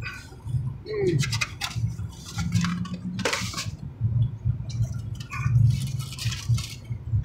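Close-miked eating: chewing and wet mouth smacks, with quick clicks and rustles of food handled by hand, over a steady low hum.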